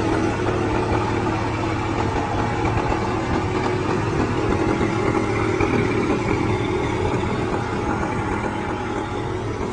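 Combine harvester's diesel engine running steadily, with a constant hum and mechanical rumble, easing off slightly near the end.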